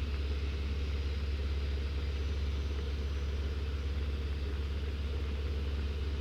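Jodel DR1050 light aircraft's piston engine and propeller droning steadily, heard from inside the cockpit during the landing approach.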